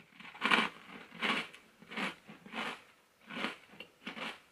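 A person chewing a mouthful of dry, crunchy multigrain ring cereal with no milk: a steady run of crunches, roughly one every two-thirds of a second.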